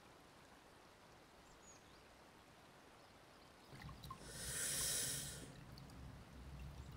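Faint outdoor quiet, then about four seconds in a man's sharp hissing breath lasting about a second, a sound of pain as he washes his bruised face.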